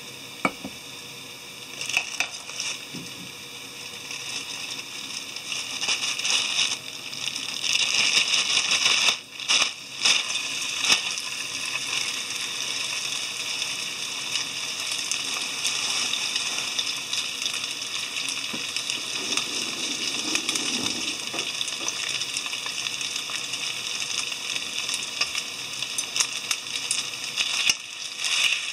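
Chicken thigh pieces and eggplant wedges frying in hot oil in a frying pan: the sizzle builds from a couple of seconds in and is loudest around eight to eleven seconds in, as the raw chicken goes into the pan, then holds as a steady sizzle. There are a few light clicks of chopsticks against the pan near the end.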